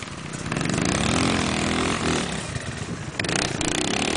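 Dirt bike engine revving, its pitch rising and falling a couple of times, with a louder, rougher stretch about three seconds in.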